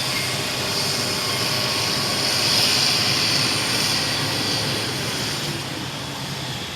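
Heavy diesel mining machinery, an excavator or dump truck, running steadily; it grows louder to a peak about halfway through, then eases off.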